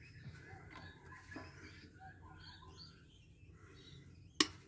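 Faint birdsong in the background, with one sharp knock near the end.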